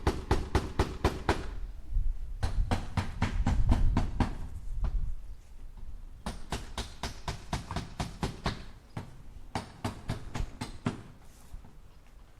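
Hammer striking nails into wood in quick runs of about five blows a second, four runs separated by short pauses. The blows carry a heavier thud in the second run and grow fainter in the last two.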